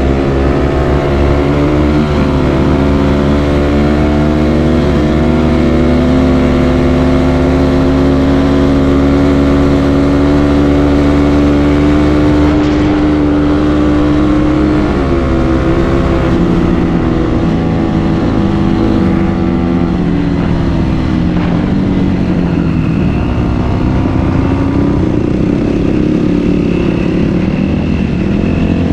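Dirt bike engine running under way. It holds a steady pitch for about the first half, then the revs drop and climb again as the throttle changes.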